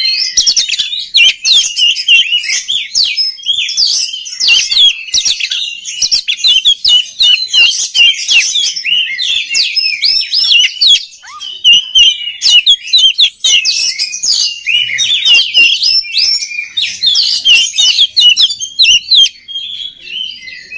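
Oriental magpie-robin (kacer) singing a fast, nearly unbroken stream of varied high whistled notes and quick sweeps, with a short pause near the end.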